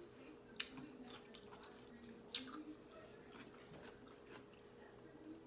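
Close-up eating sounds: crunchy bites and chewing of cucumber slices. Two sharp crunches stand out, about half a second in and about two and a half seconds in, with a few lighter ones between, over a faint steady hum.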